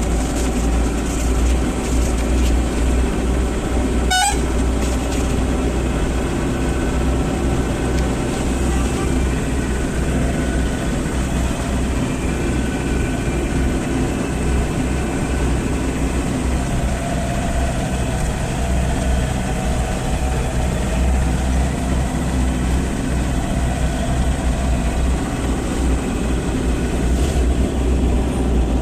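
Tata 909 light truck's diesel engine running steadily with a deep, even rumble. There is a brief sharp sound about four seconds in.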